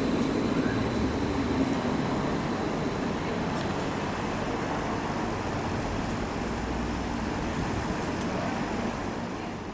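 Electric passenger train slowly pulling out past the platform: a steady rumble of its wheels and motors that eases off toward the end.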